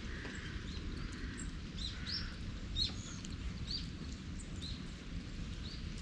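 Small birds chirping, short high calls repeated every half second or so, over a steady low rumble of outdoor background noise.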